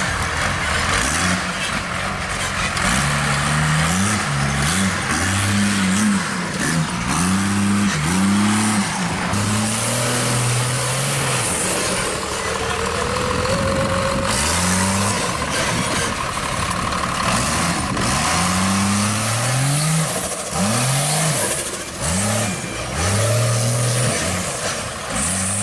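Off-road rock-racing truck engine revving hard again and again, its pitch climbing and dropping with each stab of throttle, with short lulls between.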